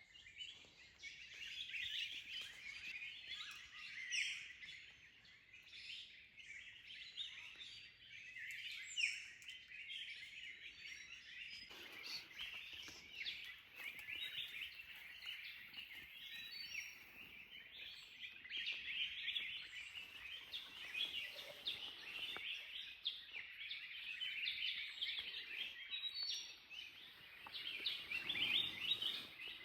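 Many wild birds chirping and calling at once, a dense overlapping chorus of short high notes.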